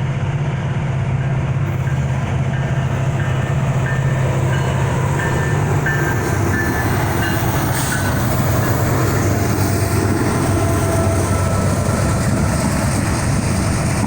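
Diesel freight train with three locomotives passing close by, its engines giving a steady low drone over the rumble of the train on the rails.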